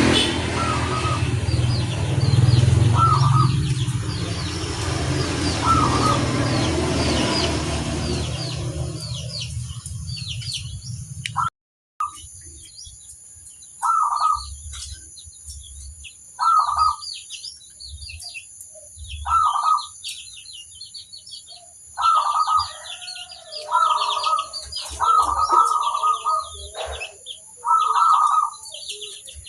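Zebra dove (perkutut) cooing in repeated short phrases, with small birds chirping high in the background. A low rumble runs under the first third, then breaks off and the coos stand out clearly, coming every two to three seconds and bunching closer toward the end.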